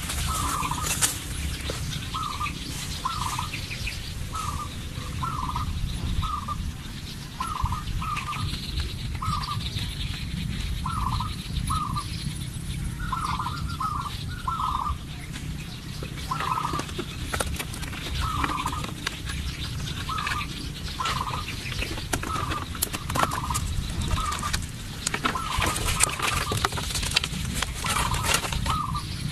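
Fowl-like birds calling: short calls repeated in twos and threes about every second, over a steady low rumble.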